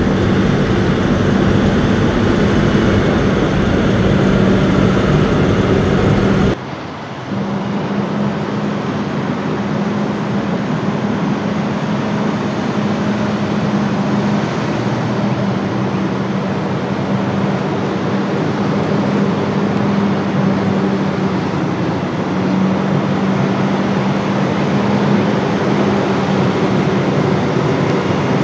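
Semi-truck engine and road noise heard from inside the cab while driving: a steady drone with a constant low hum, with a brief dip about six and a half seconds in before the same drone carries on.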